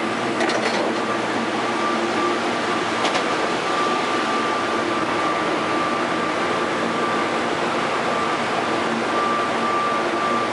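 Steady hum and hiss of a stationary automated people-mover train car, its ventilation running, with a steady high-pitched tone that drops out now and then and a couple of faint ticks.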